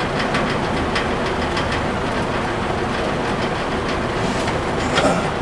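A steady, even noise runs throughout, with light plastic clicks and rattles from radio wiring plugs and parts being handled behind the dash. A slightly louder knock comes about five seconds in.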